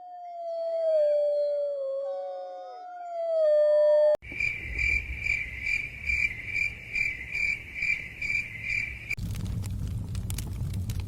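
Several wolves howling in long, overlapping, falling howls. About four seconds in it cuts abruptly to crickets chirping in a steady pulse of about two chirps a second. Near the end a log fire's crackling and popping takes over.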